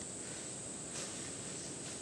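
Steady high-pitched drone of rainforest insects, with a faint click about a second in.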